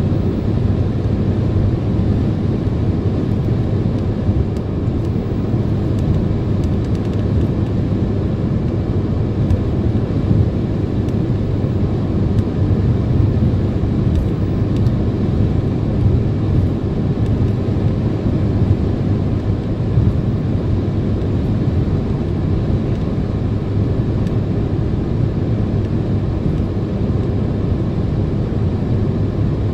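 Steady road and engine noise inside a car cabin at highway speed: an even low rumble with no change.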